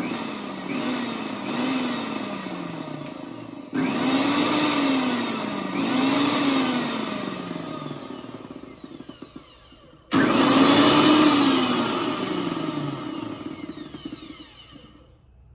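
Bosch TrueMixx Pro 1000 W mixer grinder's motor being test-run in three short bursts. Each burst starts abruptly with a loud whine, then drops in pitch and fades as the motor coasts down; the third, about ten seconds in, is the loudest and winds down almost to a stop.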